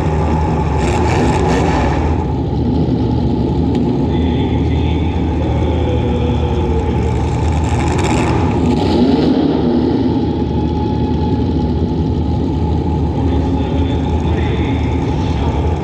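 Compact demolition derby car's engine running loud and steady under throttle, with a deep rumble, and two brief noisier moments, about a second in and about eight seconds in.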